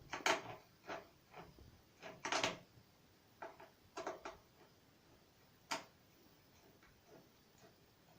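Irregular clicks and knocks of cupboard doors being taken off: small hinge and fitting clicks with a few sharper knocks, the loudest a little past the middle.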